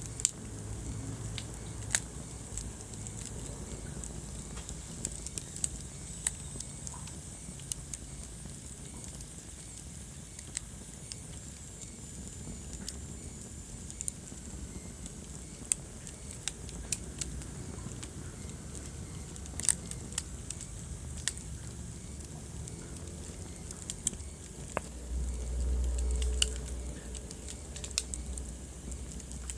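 Wood fire in a fireplace crackling, with irregular sharp pops and snaps over a steady low rumble of burning. A louder low rumble swells briefly near the end.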